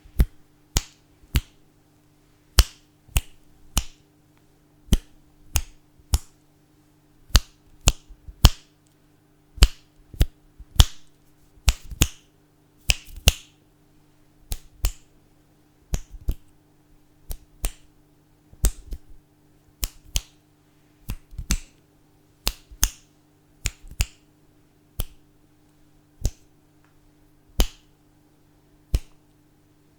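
Fingers snapping one after another, sharp single snaps about one to two a second at an uneven pace, some in quick pairs, over a faint steady hum.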